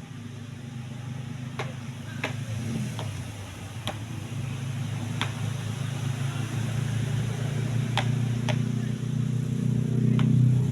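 A motor vehicle's engine hum growing steadily louder as it comes closer, with a scattering of sharp short knocks over it.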